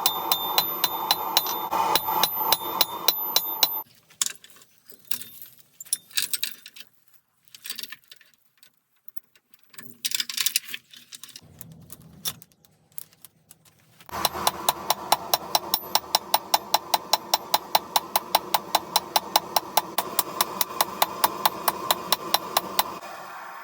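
Hammer blows on hot mild steel over an anvil, struck at an even pace of about four a second over a steady hum. A quieter stretch of scattered clinks comes in the middle, then the steady hammering resumes.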